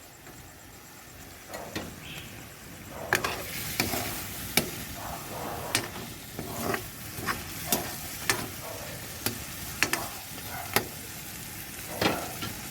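Chicken pieces sizzling in a cooking pot while being stirred, the utensil knocking against the pot at irregular intervals from about three seconds in. The chicken is being stirred through with fish sauce (patis) before the water goes in for tinola.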